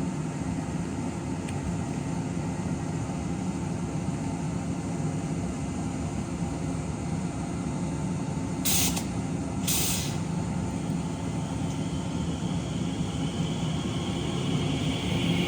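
An electric train standing at the platform, humming steadily. About halfway through it gives two short hisses of air about a second apart, as its air brakes release.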